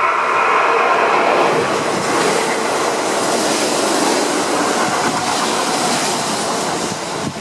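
Kintetsu red-and-white electric train passing close by at speed: a steady rushing rumble of wheels on rail, whose hiss builds to its peak midway and eases near the end as the cars go by.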